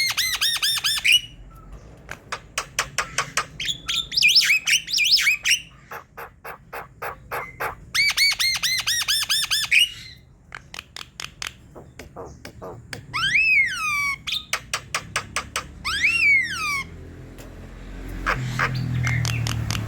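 Javan myna (jalak kebo) singing in a loud, varied chatter: long runs of rapid clicks, quick series of repeated ringing notes, and two loud swooping whistles about 13 and 16 seconds in.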